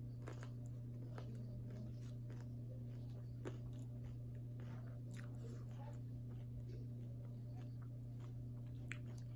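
Mouth chewing a crunchy beef taco in its hard corn shell, with scattered faint crunches and clicks, over a steady low hum.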